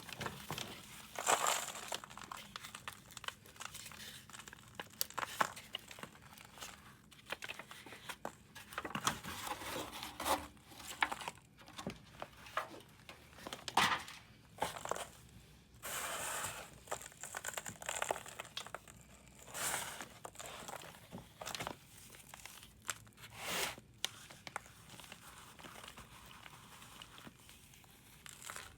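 Pressed powder blocks being crumbled and shaved: irregular dry crunching and scraping, with a sharper crack now and then.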